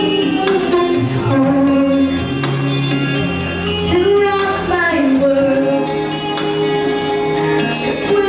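Voices singing a song with instrumental accompaniment under held bass notes, with brief cymbal-like hisses now and then.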